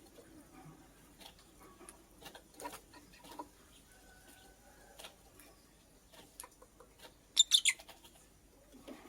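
Lovebird giving a quick burst of about four shrill chirps, the last sliding down in pitch, about seven seconds in, amid scattered faint clicks and rustles.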